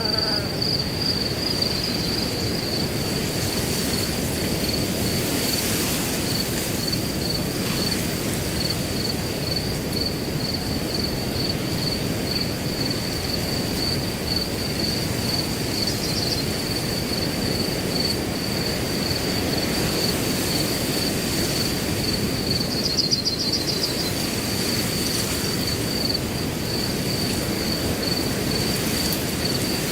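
Crickets chirping in a steady, evenly pulsed trill at one high pitch, over a continuous low rush of wind blowing through grass.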